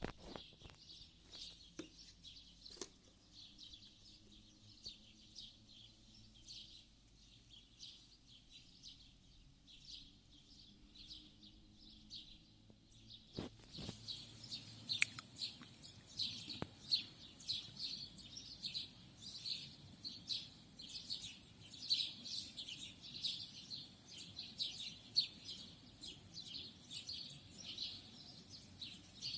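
Several songbirds singing and chirping in a dawn-chorus mix, sparse at first and much busier from about halfway through, just after a single sharp click.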